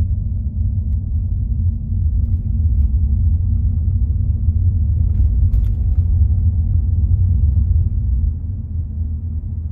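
Steady low rumble of a car driving along a road, with a couple of faint clicks about five and a half seconds in.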